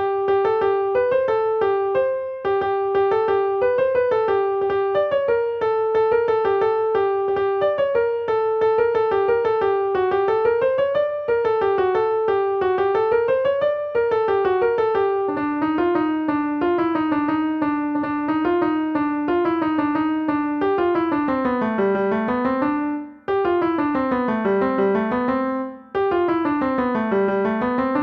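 Piano playing a lively melody in quick, evenly repeated notes, with runs that dip and climb in the second half; the playing breaks off briefly twice near the end.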